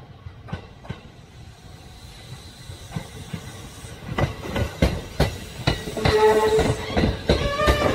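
Electric train approaching and growing louder from about halfway through, its wheels knocking over rail joints in an uneven clickety-clack, with a steady high whine joining in about three-quarters of the way in.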